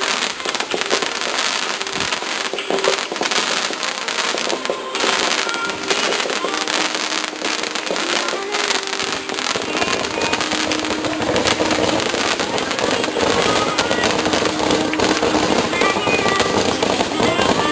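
Starmine fireworks display: a dense, continuous run of shell bursts and crackling, with music playing along.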